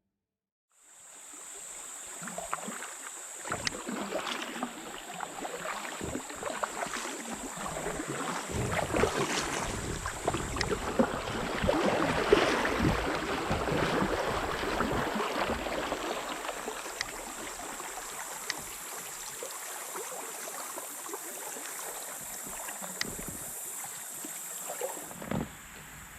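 Kayak moving down a shallow creek, water splashing and rushing around the hull with scattered knocks. The water noise swells louder in the middle and eases off again, over a steady high-pitched hum.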